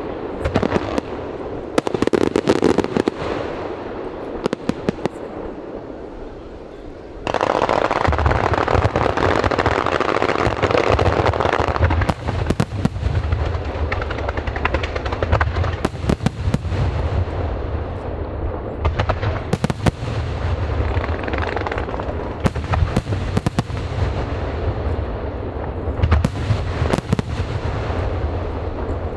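A large aerial fireworks display: shells bursting in a string of sharp bangs, then, about seven seconds in, a sudden swell into dense, continuous crackling with a deep rumble beneath and more bangs on top.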